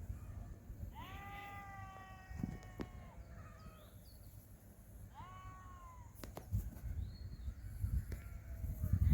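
An animal calls twice: first a long, slightly falling cry of about two seconds, then a shorter one about four seconds later, over a low background rumble.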